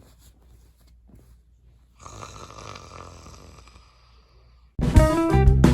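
A person snoring once, a drawn-out snore about two seconds in. Near the end, upbeat guitar and drum music starts.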